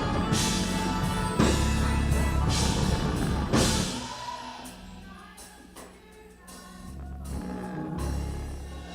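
Live gospel worship music: a church band with drum kit and cymbal crashes, with singing. About four seconds in it drops to a quieter passage of held chords, then swells a little near the end.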